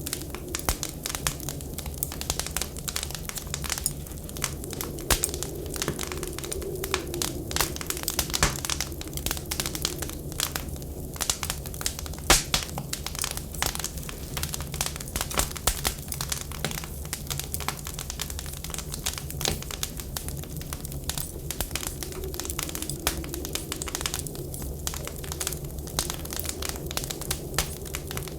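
Wood fire crackling with frequent sharp pops, one louder pop about twelve seconds in, over a steady low rumble of wind.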